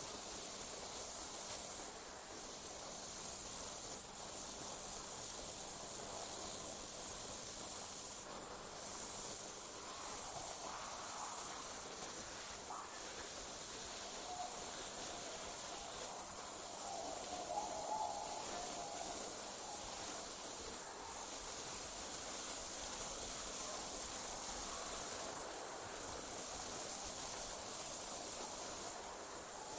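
Crickets trilling in a steady, very high-pitched night chorus that breaks off for a moment every few seconds.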